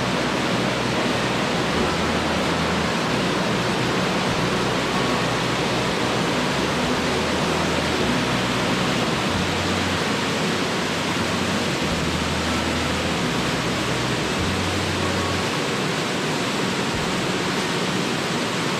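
Small waterfall and rapids rushing steadily, an even white-noise roar of falling water.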